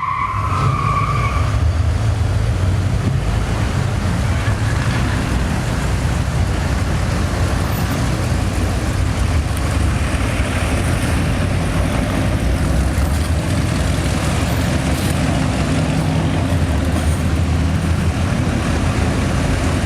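Classic car engines running steadily as the parade goes by, a continuous low rumble with road and crowd noise over it. A brief high tone sounds in the first second or so.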